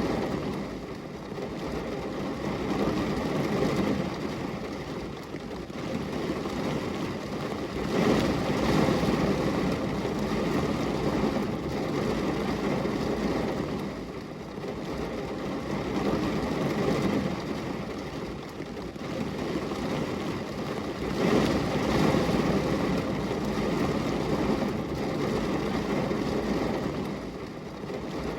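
Rain falling on window glass: a steady, dense rushing noise that swells and eases every few seconds.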